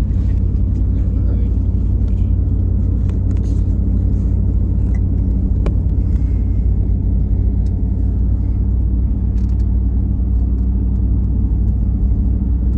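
Steady low rumble of a car driving, heard from inside the cabin, with a few faint clicks and rattles.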